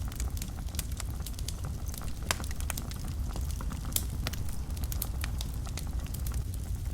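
Wood fire burning in a fireplace: frequent irregular crackles and sharp pops over a low steady rumble of the flames, with a louder pop about two seconds in and another near four seconds.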